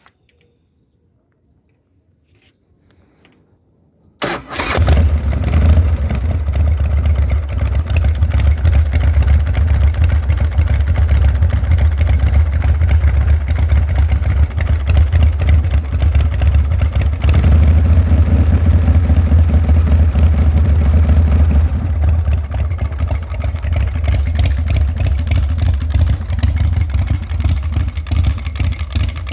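Chopper motorcycle engine starting abruptly about four seconds in, then running loudly and steadily with a deep low-pitched note. It grows louder for several seconds in the middle, as if revved, and then settles back.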